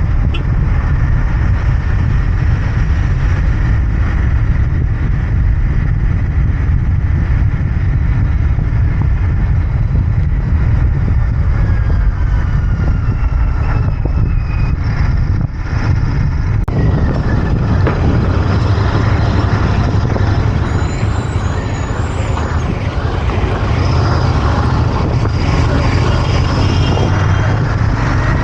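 Royal Enfield Interceptor 650's 648 cc parallel-twin engine and exhaust running steadily under way, with road noise. The loudness dips briefly about halfway through.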